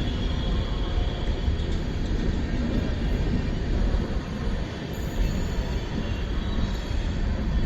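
Passenger train being shunted past on the track, with a steady rumble of wheels rolling on rails.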